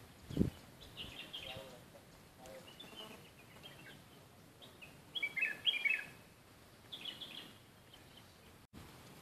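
A small bird chirping in repeated bursts of quick, high, stepping-down notes, a burst every second or two. A single dull low thump about half a second in.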